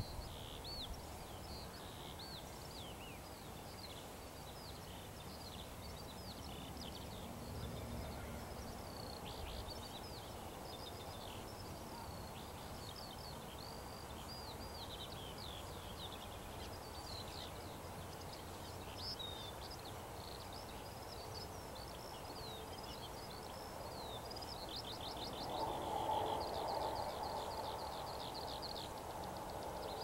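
Several songbirds singing and twittering with high, quick phrases, ending in a fast trill of evenly repeated notes, over a low steady rumble. A few seconds before the end a broader low sound swells up and fades again.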